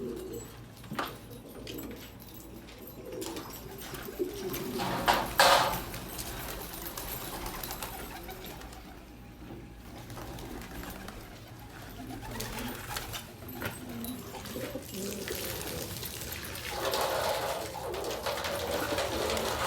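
Domestic pigeons cooing repeatedly, with a brief louder rush of noise about five seconds in.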